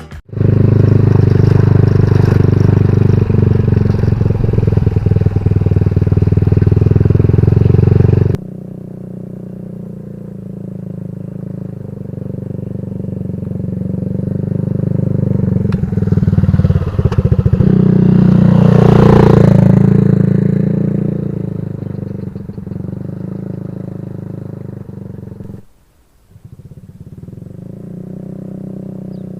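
Motorcycle engine running: loud and steady for the first eight seconds, then cut abruptly to a quieter stretch that builds up and falls away near the middle, with a brief drop near the end.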